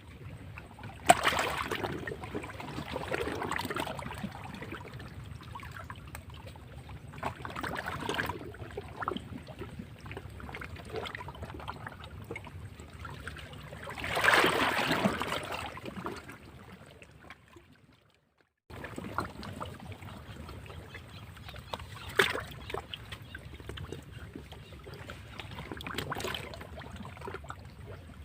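Sea waves breaking and splashing against rocks, surging and falling back every few seconds, with the biggest surge about halfway through. The sound drops out completely for a moment about two-thirds of the way in.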